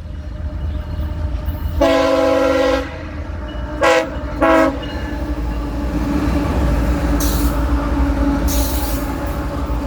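CSX freight locomotive's multi-note air horn sounding one long blast, then two short blasts, over the low rumble of the approaching train, which grows louder toward the end.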